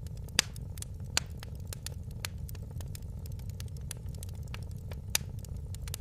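Wood fire in a fireplace crackling: a steady low rumble of flames under a constant scatter of small ticks, with three sharper pops near the start, about a second in, and about five seconds in.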